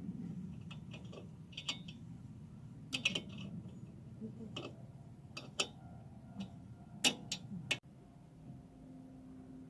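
Light metallic clicks and taps of hand tools and engine parts being handled during motorcycle engine top-end assembly, scattered irregularly, one to three a second.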